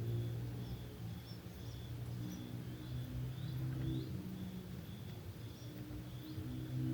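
Cricket chirping steadily, short high chirps about twice a second, with a few brief rising high calls mixed in. Underneath runs a louder low drone of sustained, slowly changing tones.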